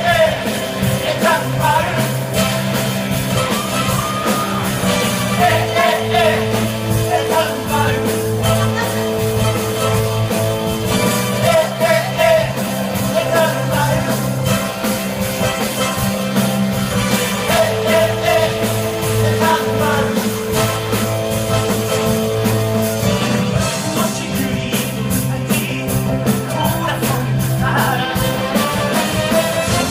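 Live rock band music playing loudly, with sustained chords changing every few seconds under a melody line.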